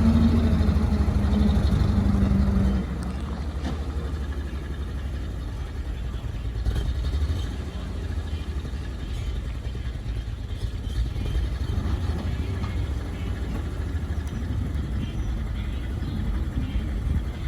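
Engine of a GMC CCKW 2½-ton 6x6 truck, a GMC 270 inline six, running steadily. It drops to a lower, quieter running about three seconds in.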